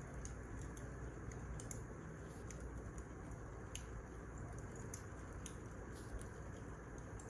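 Wood fire crackling in a fireplace: irregular sharp pops and snaps over a steady low rustle of burning logs.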